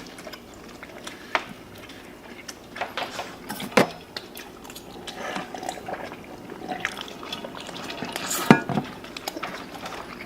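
Eating at a table: cutlery and takeout containers clicking and scraping, with two sharper knocks about 4 and 8½ seconds in.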